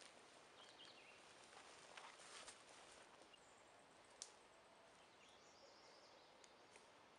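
Faint outdoor ambience: a low, even hiss with soft rustles and clicks in the first couple of seconds, a single sharp click about four seconds in, and faint, distant high chirps.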